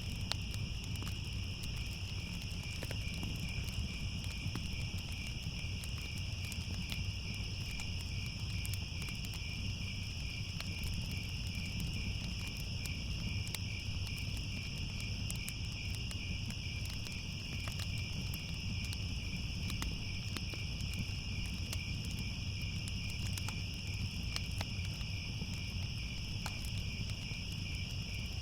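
Crickets chirping in a steady, unbroken chorus over a constant low rumble, with scattered faint crackles of a fire.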